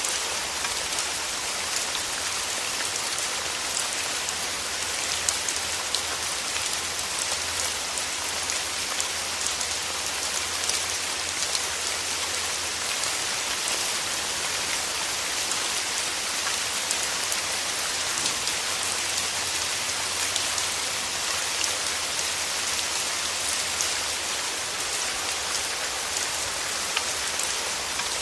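Steady, even rain falling on a surface, a dense hiss of many drops with occasional distinct drop ticks, under a faint low rumble.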